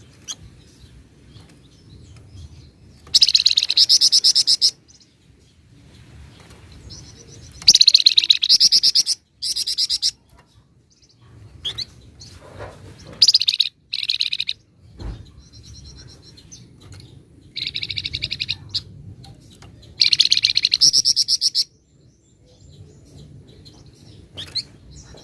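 Flamboyan songbird singing in repeated bursts of very fast, dense, drill-like trills, each lasting one to two seconds, with short chirps between them.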